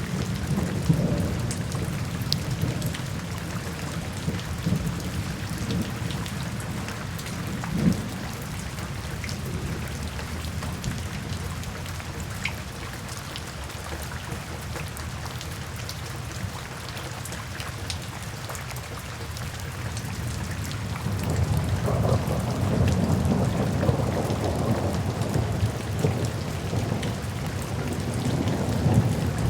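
Steady rain falling, an even hiss, with low rolling thunder underneath that eases off through the middle and swells back up about two-thirds of the way through.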